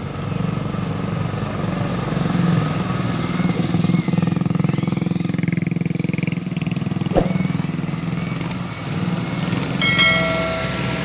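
Heavy loaded truck's diesel engine running steadily under load. A sharp click comes about seven seconds in, and a short horn-like tone sounds near the end.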